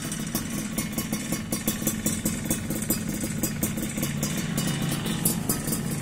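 Suzuki Satria 120 two-stroke single-cylinder motorcycle engine idling through a chrome aftermarket 'brat' exhaust, a steady rapid exhaust pulse.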